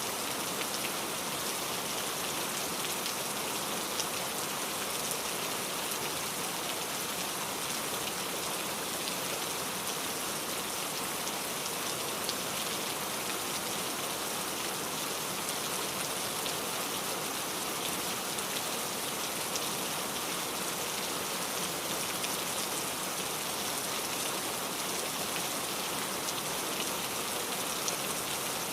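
Steady rain falling, with the close patter of individual drops hitting a surface over a continuous hiss.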